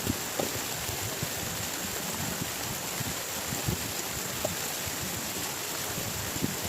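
Heavy rain falling steadily, with heavier drops tapping irregularly several times a second.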